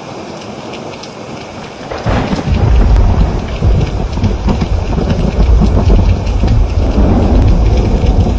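Rain falling steadily, with small drips ticking. About two seconds in, a loud, deep rumble of thunder starts and goes on.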